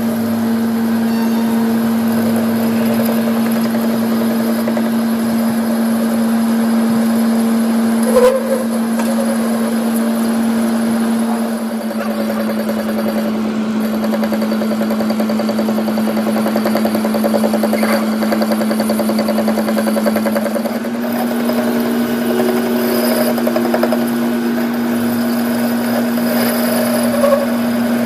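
Workshop machine motor running steadily with a constant hum that shifts slightly in pitch about twelve seconds in and again around twenty-one seconds, with a brief knock twice.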